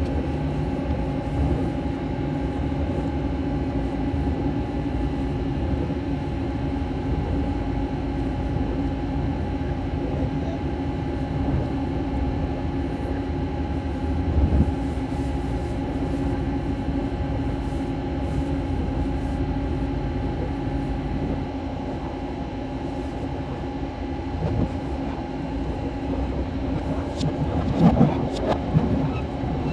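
Vitória a Minas passenger train running along the track, a steady rumble with a constant hum, heard played backwards. A few louder clattering knocks near the end.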